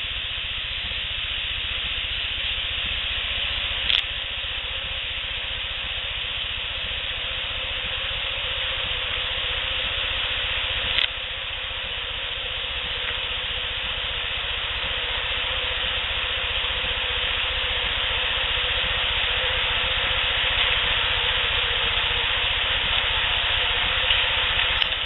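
Steady hiss of an outdoor field recording turned up loud, with a sharp click about four seconds in and another about eleven seconds in.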